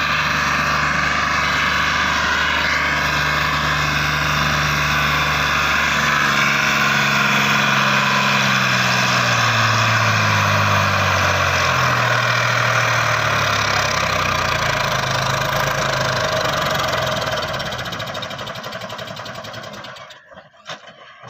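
Tractor diesel engine running hard, its pitch stepping up and down partway through, then fading out and cutting off shortly before the end.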